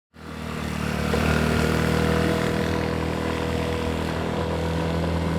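A vehicle engine droning steadily at constant speed, swelling up over the first second.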